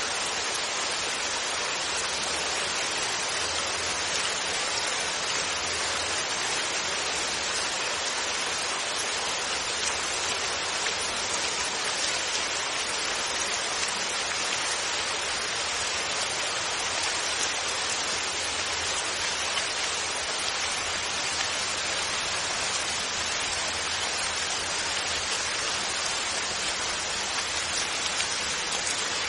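Steady rain falling, an even hiss of raindrops with no thunder.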